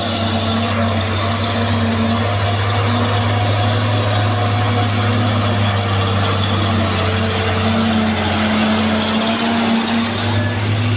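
Truck engine running steadily with a low drone, easing briefly near the end before picking up again.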